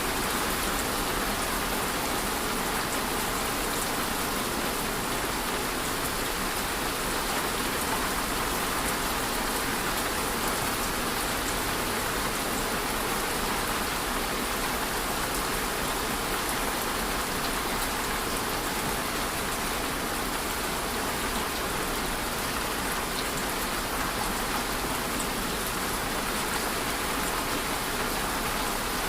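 Steady rainfall: an even hiss of rain with fine patter of drops on a surface, unchanging throughout.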